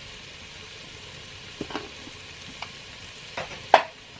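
Food sizzling in a frying pan while it is stirred, with a spoon or spatula clicking and knocking against the pan a few times, the loudest knock shortly before the end.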